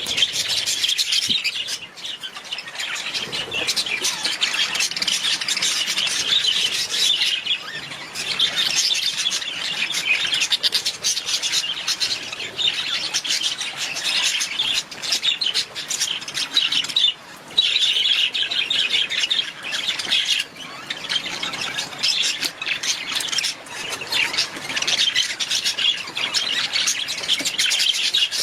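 A flock of budgerigars chattering and chirping continuously, many rapid warbles and squawks overlapping, with a brief lull about seventeen seconds in.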